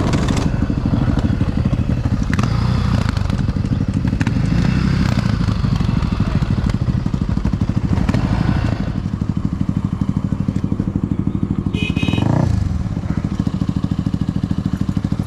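Big single-cylinder dual-sport motorcycle engine running while riding, with a fast pulsing beat. About two-thirds of the way through it eases off to a lower, steadier level. Near the end of that stretch there is a brief rev with a short high tone.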